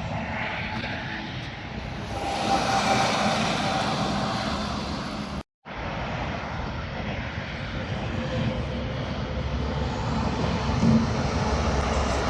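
Heavy trucks passing at highway speed: a steady rush of tyre and wind noise over a low diesel engine drone, swelling as each truck goes by. The sound cuts out abruptly for a moment about five and a half seconds in.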